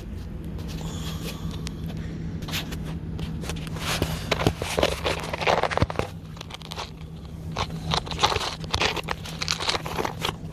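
Hand tools working on metal nuts under a car: irregular clinks, clicks and scrapes of a wrench and socket against the nuts and bar of a subframe brace, over a steady low hum.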